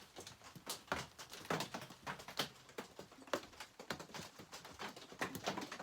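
Irregular light clicks and taps, several a second, of hand tools and small metal parts being handled during chainsaw reassembly.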